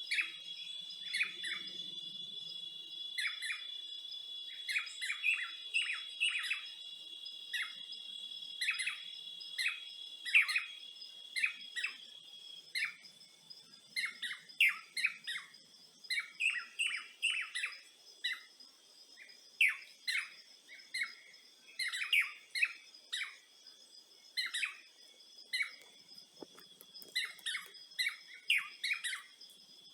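Birds chirping in quick, short repeated calls over a steady high-pitched insect drone. One of the drone's tones drops out about a third of the way in.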